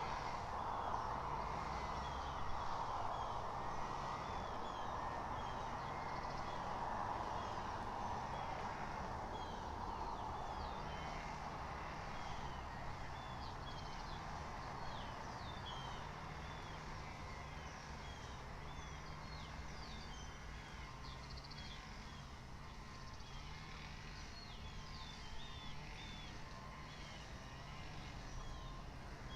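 Small songbirds chirping and singing in many short notes, over a steady rumble of distant traffic that fades after the first ten seconds or so, with a low wavering hum underneath.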